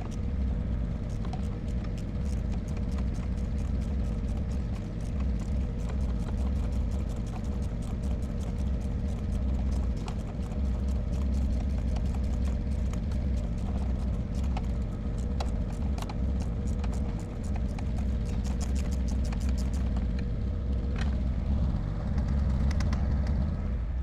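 Irregular clicks and light metal knocks of hand tools working on the engine in the bay, thickest in the second half, over a steady low rumble.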